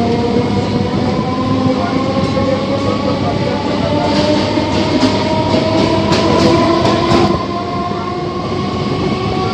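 Electric suburban local train pulling out of a station: the motor whine rises slowly in pitch as it gathers speed. A quick run of wheel clicks over rail joints comes about four to seven seconds in.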